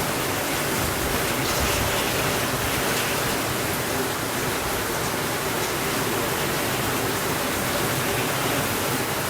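Steady rainfall: an even, unbroken hiss of rain with a few faint scattered ticks.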